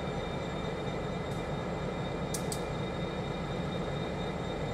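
Train running on the rails: a steady, unchanging rolling noise of railroad background sound, with a few brief faint high clicks.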